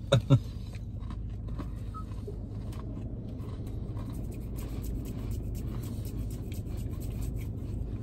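People chewing crunchy sandwich cookies, faint scattered crunches over a steady low car-cabin hum. Two brief vocal sounds come right at the start.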